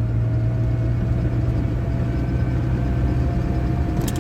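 ZMZ-405 engine of a GAZ Gazelle van running steadily under way, heard from the cab, with a small whistle over it that rises slowly in pitch. The whistle is a new sound that the owner ties to a newly fitted upper timing-chain hydraulic tensioner.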